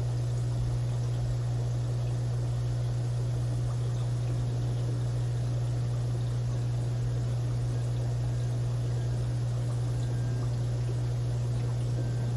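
Aquarium filter or pump running: a steady low hum with water trickling, unchanging throughout.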